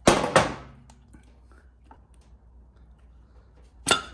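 Motorcycle parts being handled on a workbench: a short burst of handling noise at the start that dies away quickly, a few faint small knocks, and another burst of handling noise near the end.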